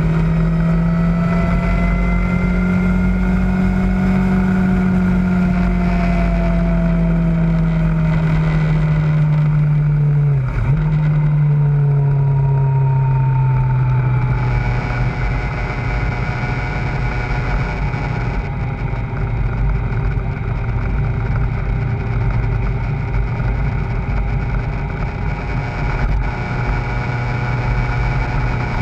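Kawasaki ZZR600 motorcycle's inline-four engine running at cruising revs under wind rush. The engine note eases down gradually, dips sharply for a moment about ten seconds in, and then holds a steady lower pitch.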